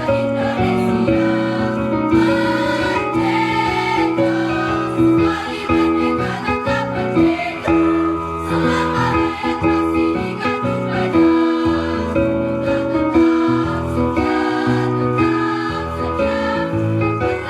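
Choir singing with instrumental accompaniment, in long held notes that change about every second.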